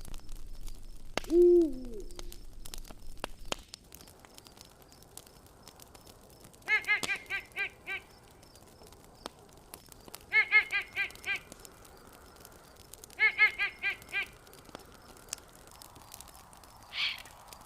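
Campfire crackling softly under forest animal calls: one low, bending call a little over a second in, then three bursts of five or six rapid repeated calls a few seconds apart, and a short higher call near the end.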